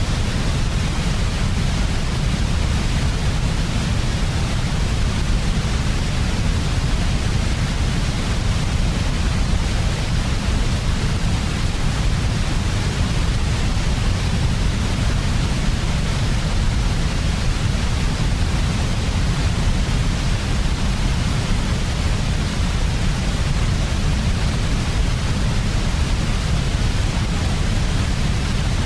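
Steady synthetic sleep noise for babies: an unchanging hiss with a strong low rumble underneath, with no changes or events.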